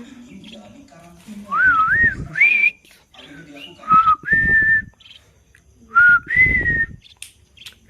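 A person whistling three short phrases of clear sliding notes, each about a second long, with a pause between them.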